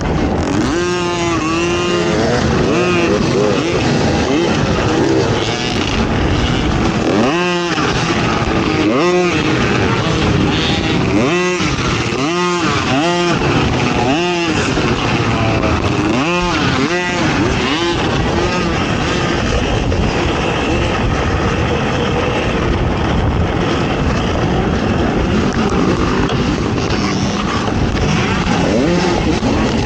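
ATV engine racing off-road, revving up and dropping back again and again as the throttle is worked, over steady wind and track noise.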